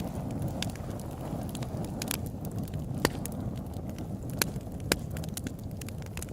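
Wood fire crackling: a low steady rumble under irregular sharp pops and snaps, with a few louder pops in the second half.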